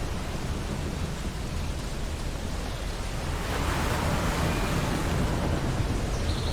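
Ocean surf on a beach: a steady wash of waves with a low rumble, and a wave breaking and swelling louder about halfway through.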